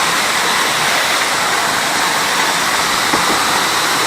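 Small waterfall cascading over rock, a steady rush of falling water.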